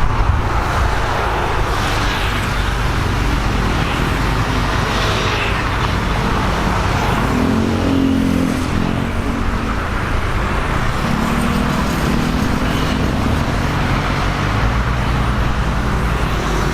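Mitsubishi Lancer EX 1.8's four-cylinder engine running steadily through an aftermarket full exhaust system, a constant exhaust note mixed with road noise.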